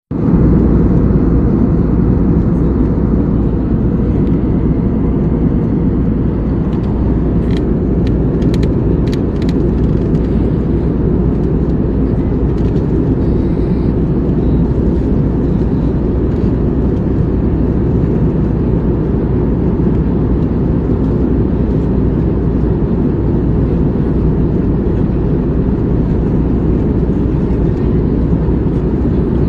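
Airliner cabin noise during the descent before landing: the steady sound of the engines and rushing air, even and deep throughout. A few faint clicks come about eight to nine seconds in.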